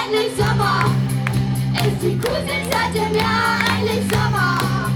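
A children's band playing a song live: young voices singing over held bass notes and a steady beat.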